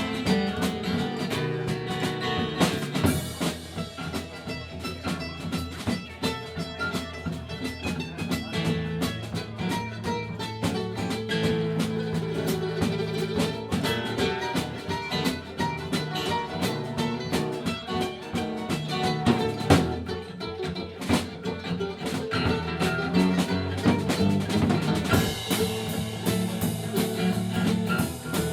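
Live country band playing an instrumental break, guitar over a steady drum kit, between sung verses of the song.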